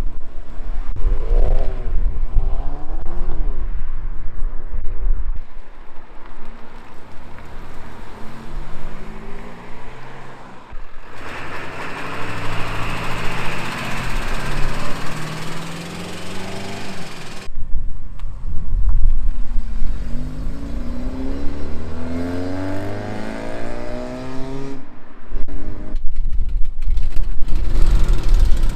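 Car engines revving and accelerating away, one after another, across several abrupt cuts. The engine pitch climbs steeply about a second in and again about two thirds of the way through, with a noisier stretch of loud exhaust in between.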